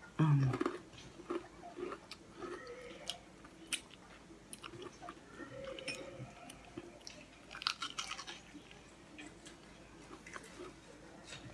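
A person biting into and chewing a crispy breaded, deep-fried sausage roll. Irregular crunches of the crust are heard, with the loudest bite just after the start.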